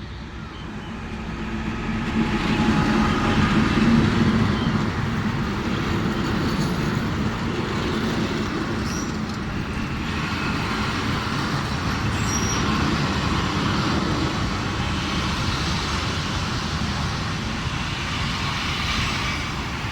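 FS D.445 diesel locomotive running as it hauls the train in. The engine drone builds over the first couple of seconds, is loudest about four seconds in, then holds steady with a low hum.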